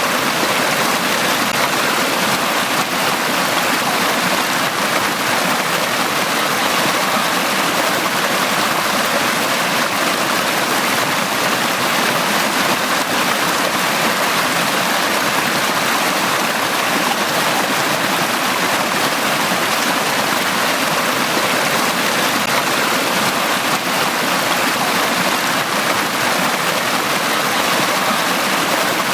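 A stream of running water flowing steadily over rocks, a constant rushing and gurgling without pause.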